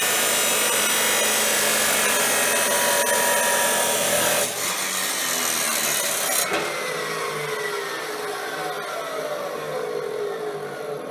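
Metal-cutting chop saw cutting through steel stock. About four and a half seconds in the cutting noise drops, and about two seconds later the saw is switched off and the blade winds down with a falling whine.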